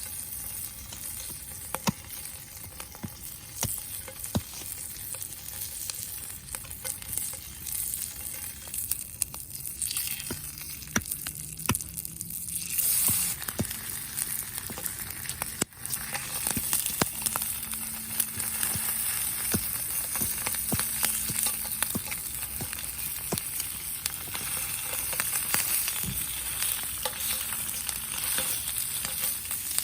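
Food frying in a pan over a campfire, sizzling steadily with frequent short clicks.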